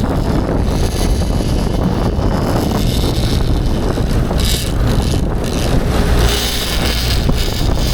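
Strong wind buffeting the microphone, with a boat's motor running underneath, steady throughout.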